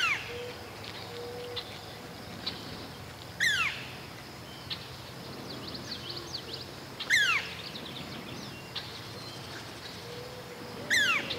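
A bird calling: a sharp, downward-sliding whistle repeated four times, about three and a half seconds apart, with softer short chirps between.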